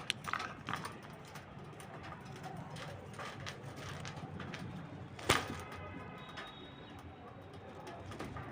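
Indian ringneck parrot making faint soft clicks and a brief quiet whistle-like chirp, with one sharp click about five seconds in.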